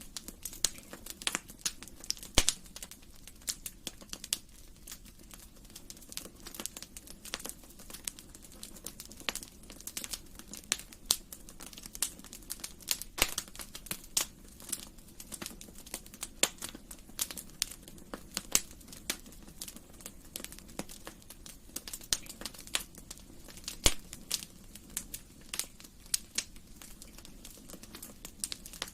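Wood fire burning in a fireplace, crackling with many irregular sharp pops and snaps over a low steady hiss of the flames.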